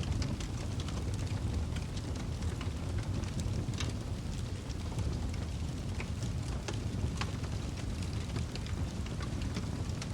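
Wood fire crackling in a fireplace: a steady low rumble from the flames, with quick irregular pops and snaps scattered throughout.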